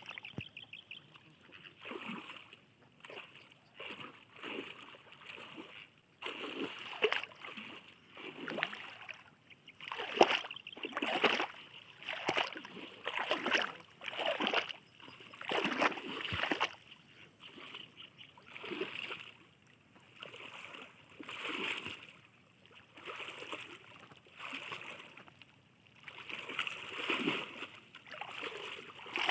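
River water splashing in short, repeated strokes, about one a second, as water is worked through while net fishing.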